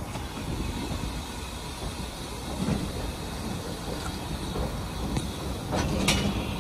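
Steam-hauled passenger train running along the track, heard from a carriage window: a steady rumble of wheels on rail with a few sharp clacks, the loudest near the end.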